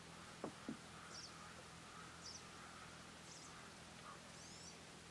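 Near silence of a quiet outdoor evening, with a small bird faintly chirping a short high call about once a second, four times. Two light clicks about half a second in.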